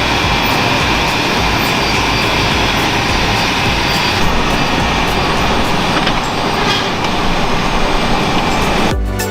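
Tractor engine running steadily. Music starts near the end.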